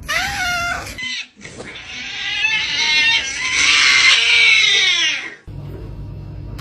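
A cat gives a short meow, then a long, loud yowl of about four seconds that cuts off suddenly.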